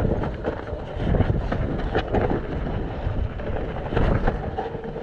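Mountain bike descending a wet, muddy trail: tyres through mud and the bike rattling with frequent sharp clicks and knocks over rough ground, under wind buffeting the microphone.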